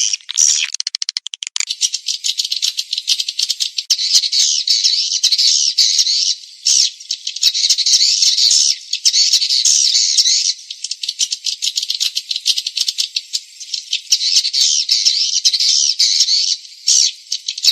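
Swiftlet lure call: a recording of swiftlets' high-pitched, rapid twittering chirps and clicks in dense runs broken by short pauses, with no low sound at all. It is the kind of calling sound swiftlet farmers play to attract the birds to a nesting house.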